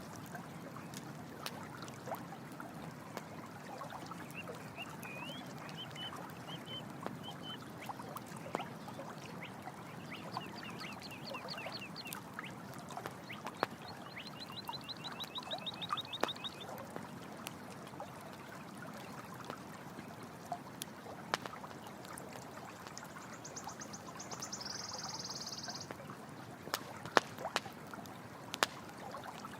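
Running stream water flowing steadily under a crackling campfire, whose sharpest pops come near the end. A few short, high, rapid trills from a night creature sound in the middle.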